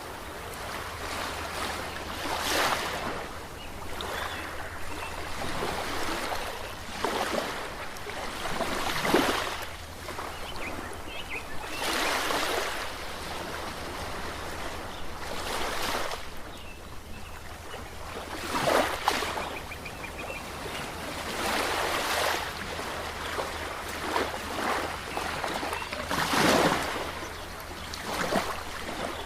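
Ocean waves breaking and washing ashore, each swell of rushing surf rising and falling every few seconds over a constant low rumble.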